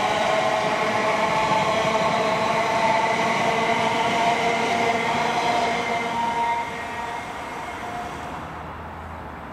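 An electric multiple unit passes close by and runs away. It makes a steady whine of several tones over the rumble of wheels on rail, and the whine sinks slightly in pitch. The sound drops off clearly about two-thirds of the way through as the rear of the train pulls away.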